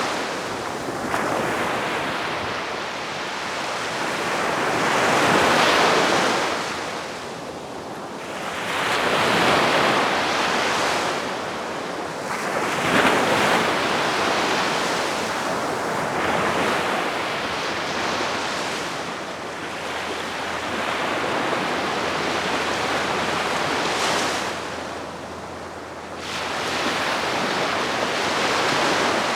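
Gentle sea waves washing onto the beach, a steady rush of surf that swells and fades every few seconds.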